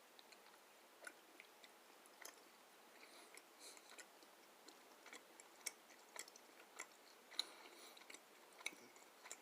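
Faint chewing of a soft, chewy strawberry Hi-Chew candy: irregular small wet clicks and smacks of the mouth.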